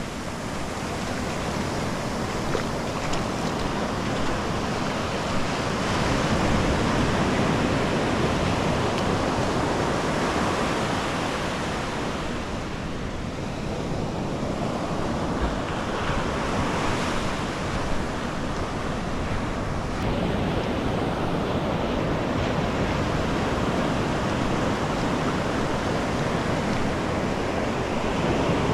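Ocean surf breaking and washing on the beach, a steady roar that swells and eases with each wave, with some wind on the microphone.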